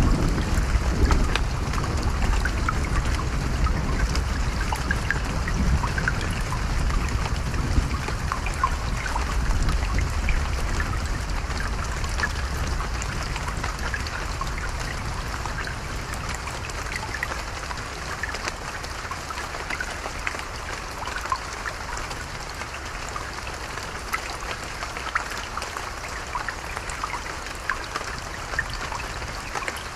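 Creek water babbling and trickling, full of small splashes, over a low rumble of thunder that fades away over the first half.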